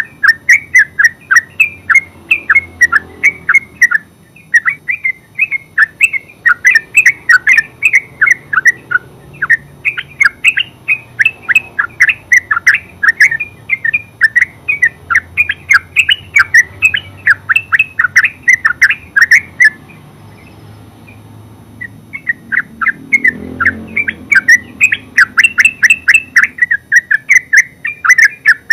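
Yellow-vented bulbul singing its full rapid chattering song: long runs of quick bubbling notes, with a pause of about two seconds a little past the middle before it starts again.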